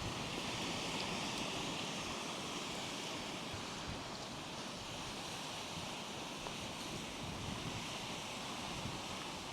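Strong wind blowing steadily with heavy rain and waves breaking on the shore, an even hiss with no distinct events.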